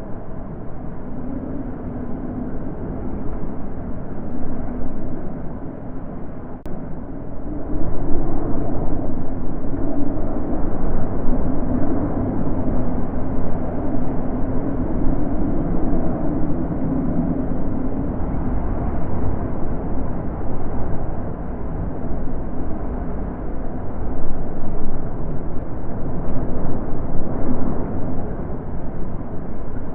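Wind blowing in gusts, a deep rushing that rises and falls and grows louder about eight seconds in.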